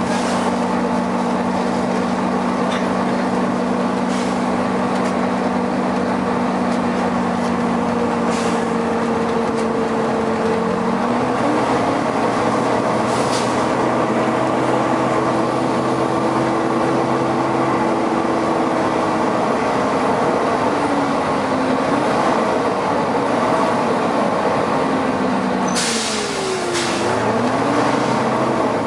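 Volvo B9TL double-decker bus running with its very loud cooling fan, steady tones that drop and change about a third of the way in, then glide up and down as the revs change. A sharp burst of air hiss comes near the end, with a few short clicks.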